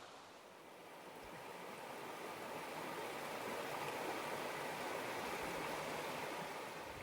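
Rushing water of a stream or river, a steady hiss that grows louder over the first few seconds and then holds.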